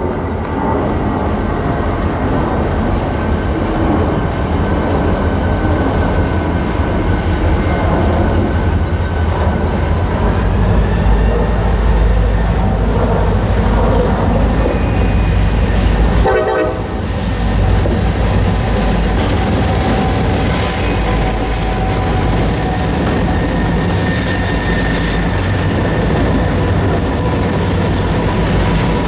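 A freight train rolling past with a heavy low rumble, loudest about halfway through. Steady high-pitched wheel squeal runs throughout, and its pitch steps up about a third of the way in.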